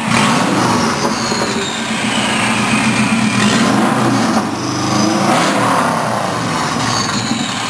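Subaru WRX's turbocharged flat-four engine running with no exhaust system fitted, loud and open. Its pitch wavers with the revs, and a high whistle slides down in pitch twice.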